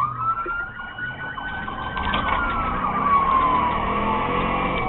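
Police patrol car siren on a slow wail, its pitch rising for about two seconds, falling for about two, then starting to climb again near the end, over the car's engine and road noise.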